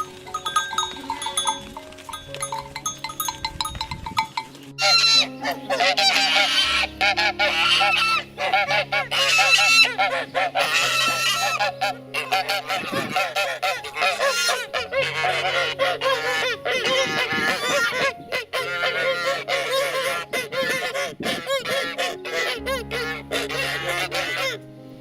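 A flock of waterfowl honking, lighter at first, then from about five seconds in a loud dense chorus of many overlapping calls, over soft background music.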